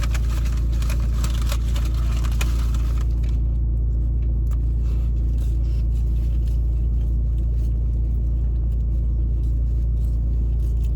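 A steady low rumble throughout, with a burst of crackling and rustling during the first three seconds and scattered faint clicks after.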